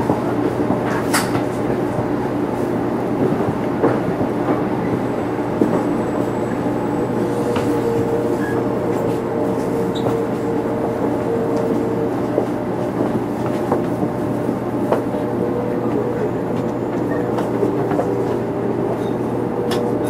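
Running noise heard inside a 500 series Shinkansen motor car: a steady rumble of wheels and track with scattered clicks, and a faint steady tone that comes in about a third of the way through and again near the end.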